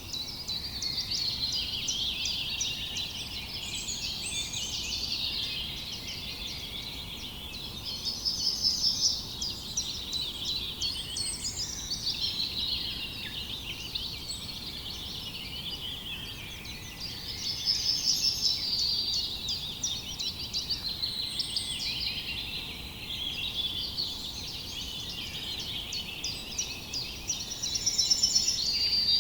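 A chorus of many small birds chirping and twittering at once, dense, overlapping high calls that swell louder several times.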